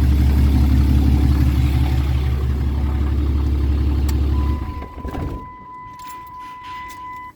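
A vehicle engine idling steadily, then shut off about four and a half seconds in. A steady electronic warning chime comes on just before the engine stops, keeps sounding, and cuts off near the end.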